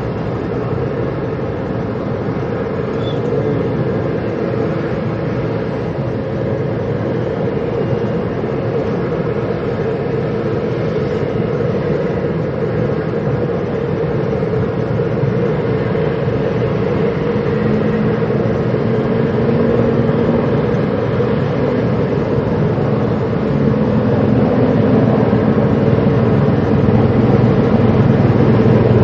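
A large engine running steadily, with a low hum and several steady tones, growing gradually louder.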